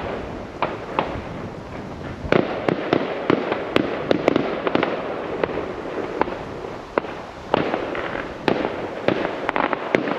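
Fireworks going off: a continuous background of distant bangs with many sharp, irregular cracks and pops, coming in denser volleys about two seconds in and again near the end.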